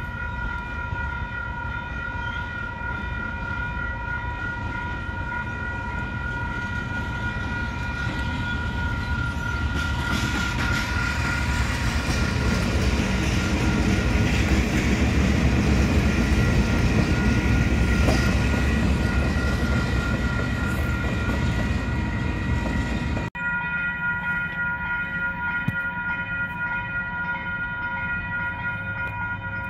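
Level-crossing warning bells ringing steadily while KiwiRail diesel locomotives rumble across, the engine and wheel noise building to its loudest in the middle and then fading. After an abrupt cut near the end, another crossing's bells ring on with a train rumbling nearer.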